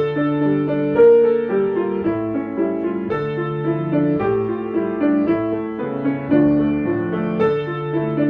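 Piano playing three layered rhythmic lines, each standing for an insect: a repeated bass line for the grasshopper, with higher lines for the beetle and the bees.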